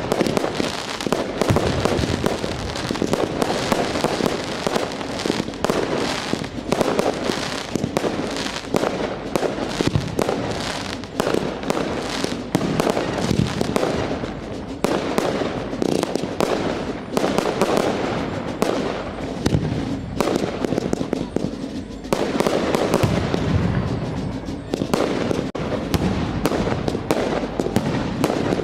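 Fireworks display: a dense, continuous run of bangs and crackling bursts, many overlapping every second.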